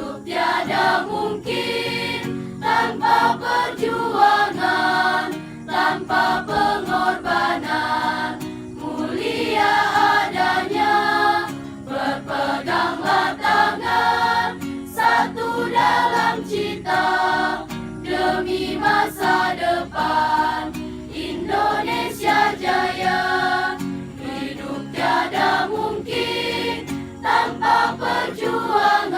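High school choir singing a song in Indonesian.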